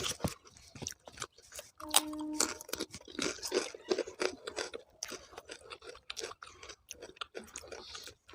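A person chewing and crunching food, a steady run of irregular crunches and wet clicks, with a short hummed 'mm' about two seconds in.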